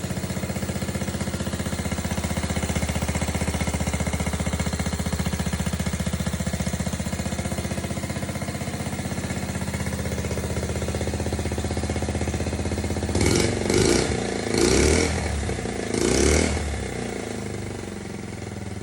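1969 Honda Z50's small single-cylinder four-stroke engine idling steadily after restoration. It is then blipped four times in quick succession a little over two-thirds of the way through, and settles back to a quieter idle near the end.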